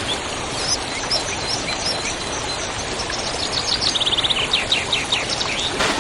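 Waterfall rushing steadily, with birds chirping over it; in the second half, a quick trill and then a run of short downward-sweeping notes.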